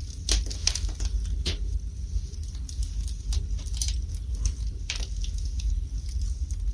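Wood fire burning in a fireplace: a steady low rumble of the flames with irregular sharp crackles and pops, several close together in the first second and a half.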